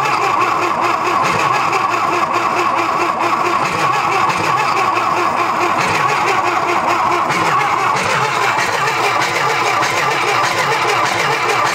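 Old tractor engine being cranked over by its starter, turning over rhythmically without catching; the owner suspects fouled spark plugs.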